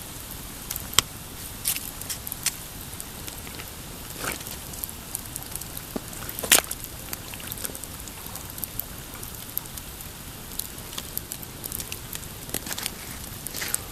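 Pine campfire crackling, with scattered sharp pops, the loudest about a second in and a little past halfway. Underneath runs a steady low wash, the waves lapping on the rocky shore.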